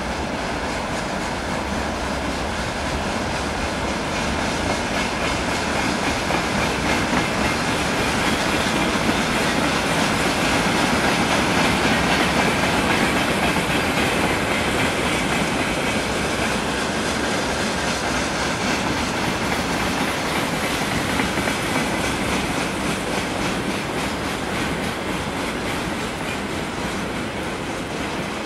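Freight train's open wagons and tank cars rolling past: a steady rumble of steel wheels on rail with clickety-clack over the rail joints, swelling a little in the middle and easing off toward the end.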